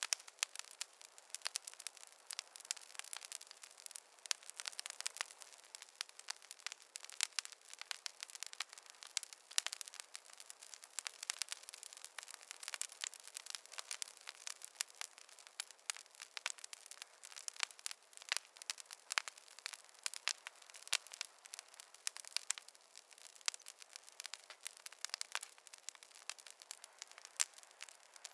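Campfire crackling: a dense, irregular run of small sharp pops and snaps from burning wood, with no low rumble.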